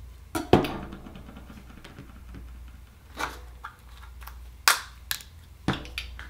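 Handling clicks and knocks, about half a dozen scattered sharp hits of hard shell and small tools as an oyster is opened and its pearl taken out, over a low steady hum.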